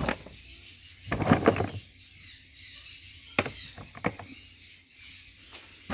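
Parrots screeching in a bird store: one loud screech about a second in, over faint background bird chatter, with a couple of sharp clicks a little later.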